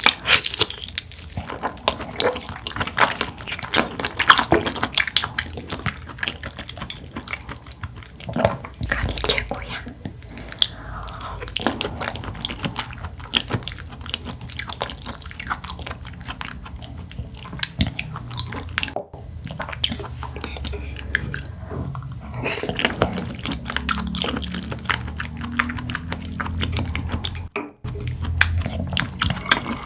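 Close-miked eating: chewing and wet mouth sounds, a dense run of small clicks and crackles.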